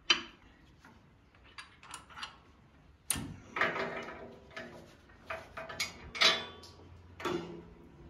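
Metal parts and tools being handled, clanking and knocking: one sharp clank at the start, then a run of clattering knocks from about three seconds in.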